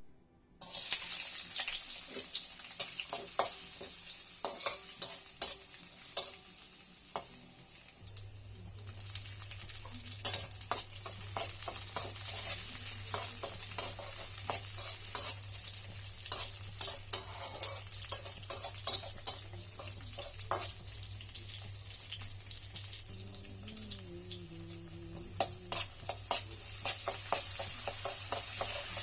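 Bottle gourd sizzling in hot oil in a pan, with a spatula clicking and scraping against the pan as it is stirred.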